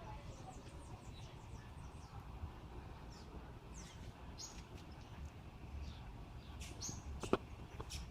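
Faint bird chirps over a low steady rumble, with a sharp click near the end.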